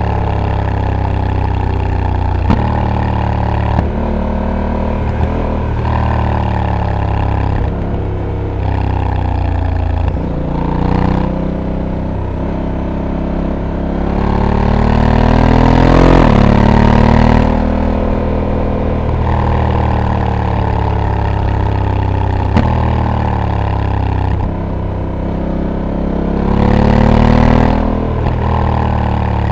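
Honda Africa Twin's 1084 cc parallel-twin engine heard from the rider's seat while riding mountain corners. The engine pitch climbs and drops repeatedly through accelerations and gear changes, highest about halfway through and again near the end, with a few brief sharp clicks.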